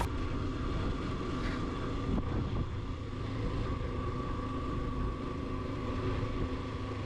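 Motorcycle engine running steadily while riding, a low rumble with wind noise on the helmet-mounted action camera.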